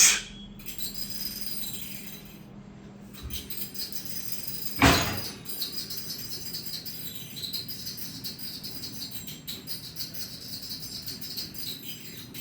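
Continuous jingling, rattling clatter of small hard objects, the mystery noise from the kitchen, described as 'khadkhada khadkhada'. Two loud bangs cut through it, one at the very start and one about five seconds in.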